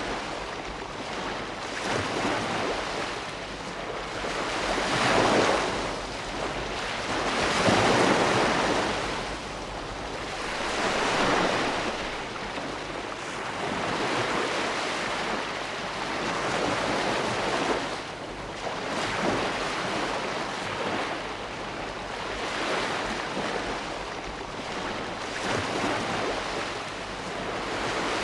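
Ocean surf: waves breaking and washing in, a steady rushing that swells and eases about every three seconds, loudest about eight seconds in.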